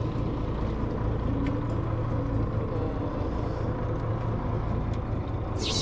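Fishing boat's engine running steadily underway, a low even drone. Near the end a sudden high hiss cuts in.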